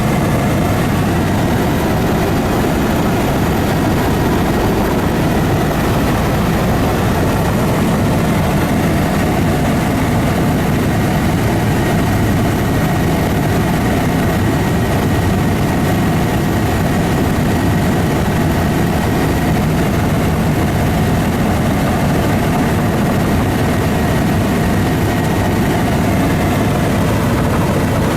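Steady, loud drone of a light sightseeing aircraft's engine in flight, unchanging throughout.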